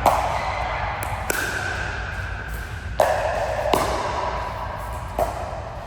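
A ball struck back and forth in a rally: about five sharp hits at uneven spacing, each ringing briefly in a reverberant hall.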